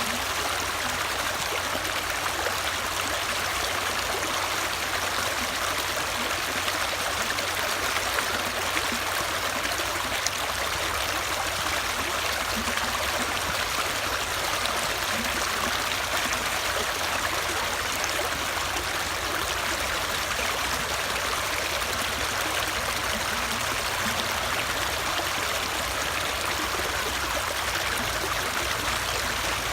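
Running water of a stream, a steady, even rushing and trickling that goes on unchanged.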